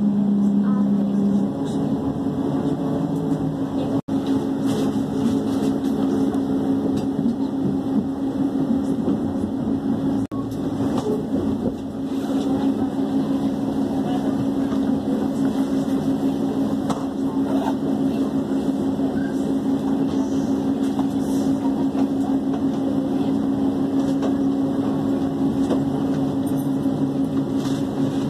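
Running noise heard from inside a moving passenger train: a steady low hum over a constant rush of noise. A second, lower hum note stops about a second and a half in, and the sound cuts out for an instant twice.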